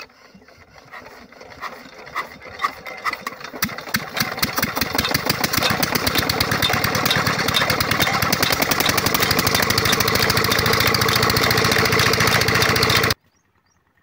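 Old Petter stationary diesel engine on a water pump starting up: slow, uneven firing strokes pick up speed over the first few seconds, then settle into a steady, fast running beat. The sound cuts off suddenly near the end.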